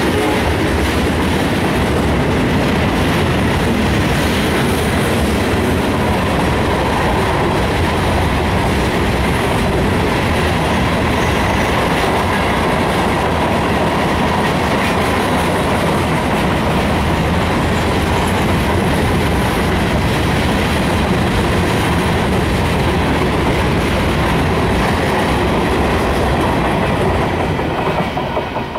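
Freight cars rolling past close by: a loud, steady rumble with the clickety-clack of wheels over the rail joints and a thin steady whine above it. Near the end the sound falls away quickly as the last car goes by.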